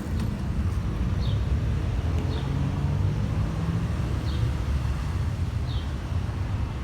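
Low, steady engine rumble of cars running on the street, with a short high chirp repeating about once a second.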